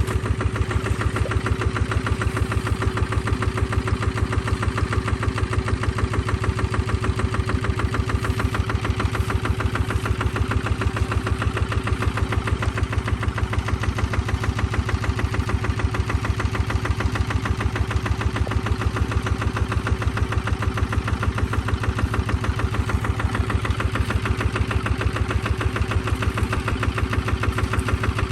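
Tractor engine running at a steady speed, a regular rapid chugging that does not change.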